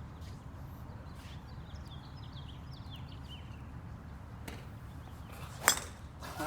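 A golf club striking a ball once with a sharp crack near the end, over steady outdoor background noise, with a fainter click a second before it.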